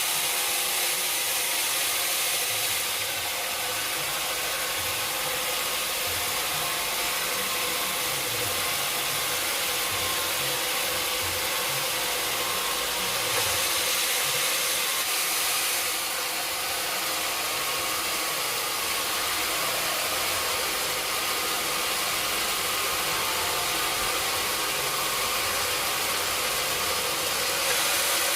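Sawmill machinery running steadily with a continuous hissing noise. The noise grows brighter for a few seconds at a time: near the start, around the middle and again near the end.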